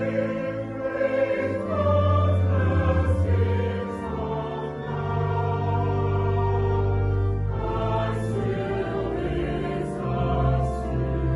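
Choral music: a choir singing slowly in long held chords that change every second or two.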